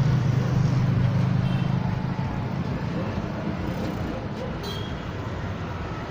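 Road traffic: a vehicle engine hums close by, loudest at the start and fading after about two seconds, over general traffic noise.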